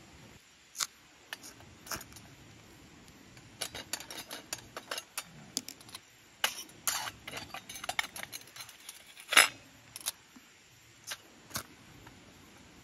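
Metal cooking utensils clinking and tapping against cookware: scattered sharp clinks, thickest between about four and ten seconds in, with the loudest knock about nine seconds in.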